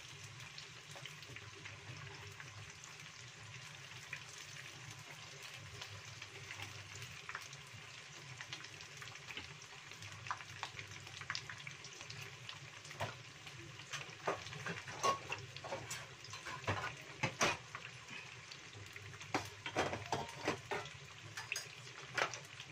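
Tapioca-battered tofu pieces frying in hot oil in a wok, browning toward a golden, crisp skin: a steady sizzle with sharp crackles and pops that grow more frequent and louder from about ten seconds in.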